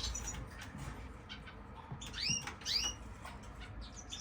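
Small caged finches calling: several short, rising chirps, bunched about two seconds in, with faint scattered clicks and ticks.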